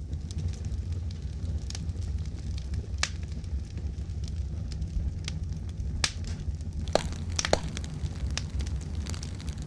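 Wood campfire burning, with a steady low rumble and scattered sharp crackles and pops, several of them coming close together in the second half.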